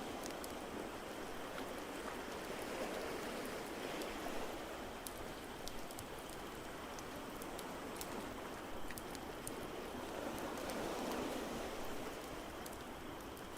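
Ocean waves washing steadily and swelling slowly every few seconds, with the sharp, irregular snaps and pops of a crackling wood fire on top.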